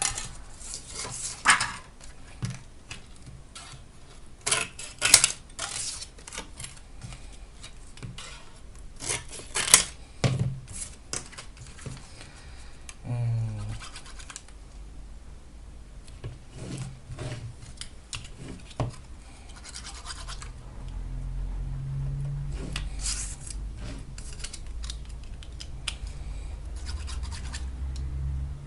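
Scattered clicks, scrapes and rubbing from cutting and handling thin plastic separator sheets for a battery pack, with a brief rising squeak about halfway through.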